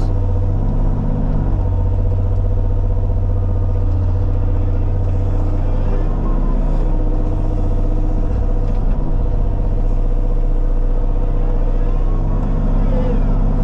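Diesel engine of a compact construction machine running steadily under work, with its deep hum continuous throughout.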